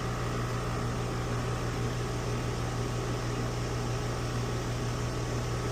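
Central air conditioner running steadily, a constant compressor and fan hum with an even airy noise, while the system is being charged with R-410A refrigerant after a coil replacement.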